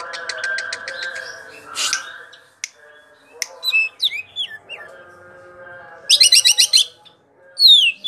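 Green leafbird (cucak ijo) singing a varied, rolling song: a quick run of ticks, sharp chirps and slurred whistles, a fast trill about six seconds in, and a steeply falling whistle near the end.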